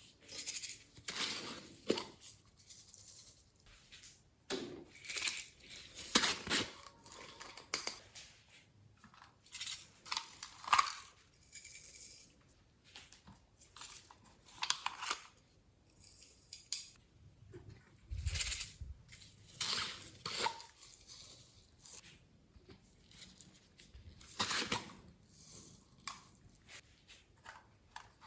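Slime being worked by hand while makeup and glitter are mixed in, giving irregular bursts of sticky crackling and clicking.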